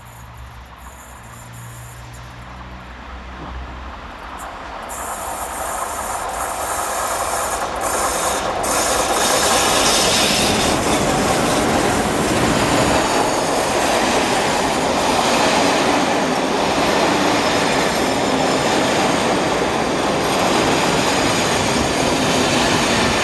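A train approaching and running past on the track. Its noise grows steadily louder over the first eight or nine seconds, then holds steady and loud.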